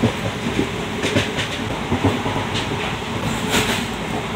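Tripurasundari Express sleeper coach running on the rails: a steady rumble with scattered knocks and clacks from the wheels and coach.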